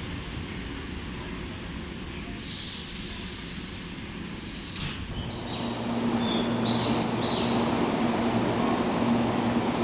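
Electric train moving along the station platform: two short hisses in the first half, then from about halfway a louder rumble with a steady hum and brief high-pitched wheel squeals.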